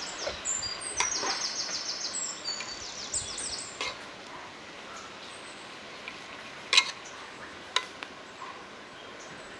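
Birds chirping in quick high trills during the first few seconds. Later a metal spoon stirring in a steel cooking pot knocks sharply against it twice.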